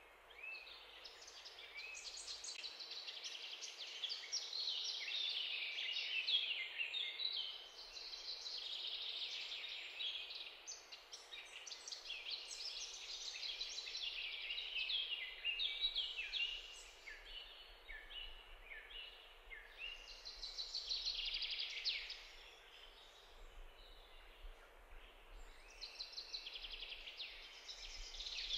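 Wild birds chirping and twittering, with many short high calls overlapping in a continuous chorus that eases off for a few seconds now and then.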